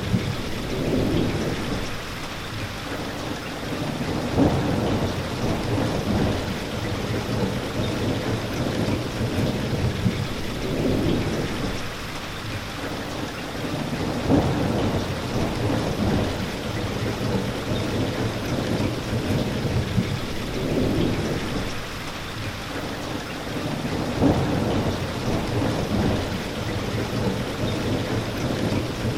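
Steady rain, with low rumbles swelling and fading every few seconds and a brief sharper crack about every ten seconds.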